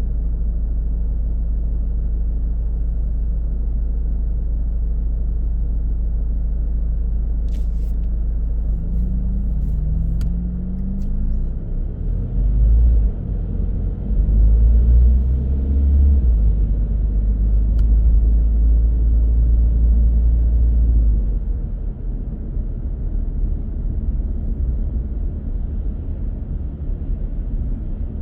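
A car being driven, with a steady deep rumble of engine and road noise. About a third of the way in, the engine note rises a few times as the car accelerates, and the rumble grows louder for several seconds before settling again. There are a few faint clicks along the way.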